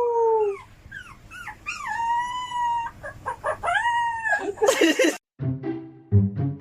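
A dog howling: several long, drawn-out howls that rise, hold and sag, with short rising yelps between them. About five seconds in it cuts off suddenly, and music with a drum beat follows.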